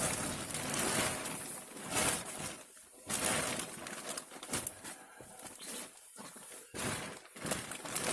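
Plastic bivvy bag rustling and crinkling in irregular bursts as it is handled and folded.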